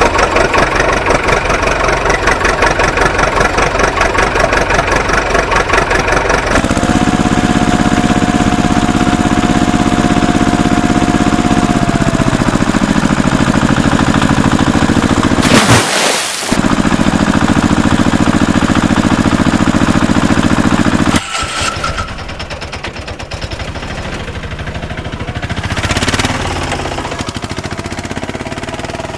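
Motor vehicle engines running and idling, in several stretches that change abruptly about 6 seconds in, around 16 seconds and about 21 seconds in. The last stretch is quieter.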